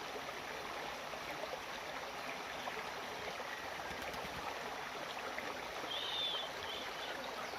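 Steady rush of running water, like a stream, with a brief high chirp about six seconds in.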